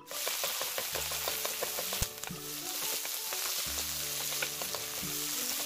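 Garlic scapes sizzling in hot oil over medium-low heat, tossed with wooden spatulas that tick and scrape against the pan, with one sharper knock about two seconds in.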